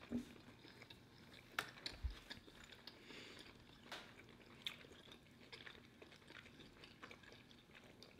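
A person chewing a chicken sandwich, faint, with a few short clicks and crunches spread through.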